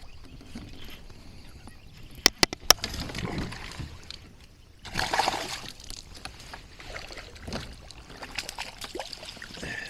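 Water splashing and sloshing beside a kayak as a hooked largemouth bass is played in, with a louder splash about five seconds in. Three sharp clicks come a little over two seconds in.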